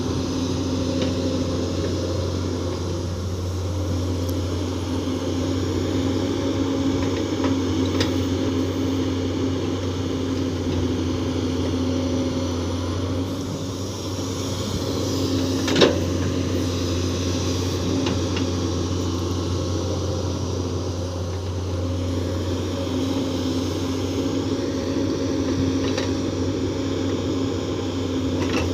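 Komatsu PC210 excavator's diesel engine running steadily under work, with one sharp knock a little past halfway.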